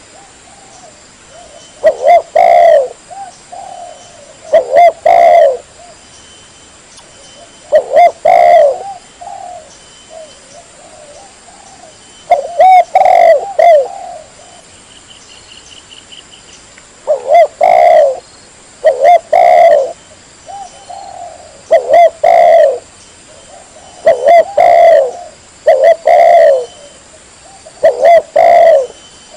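Spotted dove (tekukur) cooing: loud, repeated coo phrases every two to three seconds, with fainter coos between them. This is a lure call for drawing in wild spotted doves.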